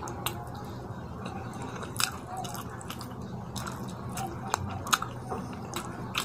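Close-miked wet chewing and lip-smacking of a mouthful of rice and fish curry, with fingers squishing the curry-soaked rice, heard as scattered sharp wet clicks and smacks over a steady low hum.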